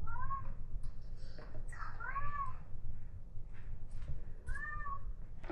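A cat meowing three times, each a short call that rises and falls in pitch, about two seconds apart.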